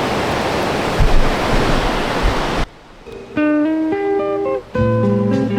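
Steady rush of a waterfall, with a couple of low thumps on the microphone. It cuts off abruptly about two and a half seconds in, and plucked acoustic guitar music starts half a second later.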